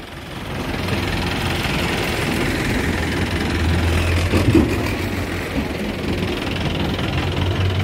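A jeep's engine idling with a steady hum, growing louder about a second in and then holding.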